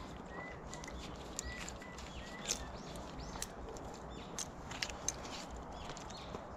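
Small birds calling with repeated short high chirps and brief rising-and-falling calls, over a faint outdoor background, with a few sharp light clicks about two and a half and three and a half seconds in.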